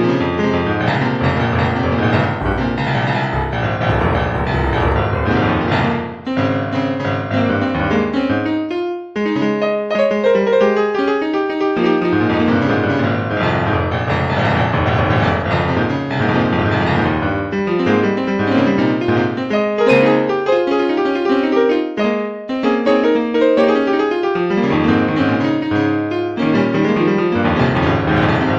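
Background music led by piano, with steady flowing chords and melody and brief breaks about nine and twenty-two seconds in.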